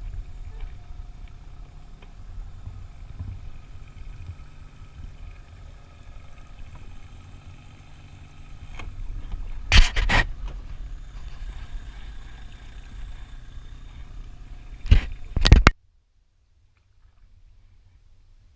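Small boat's motor running steadily, a low rumble with faint steady tones above it. Two loud, short crackling noises come about ten and fifteen seconds in, and the sound cuts off suddenly just before sixteen seconds.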